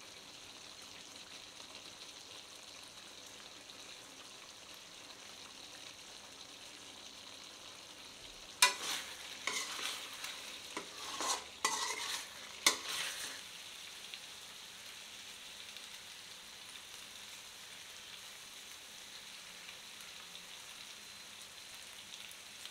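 Chicken pieces frying in a pan, with a steady sizzle as the liquid cooks down. About a third of the way in, a spoon scrapes and knocks against the pan for a few seconds while the pepper-coated chicken is stirred.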